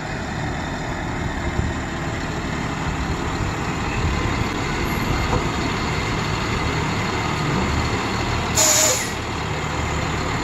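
A 1999 C7500 medium-duty crew cab truck's engine running steadily, with a short, sharp hiss of air about two-thirds of the way in.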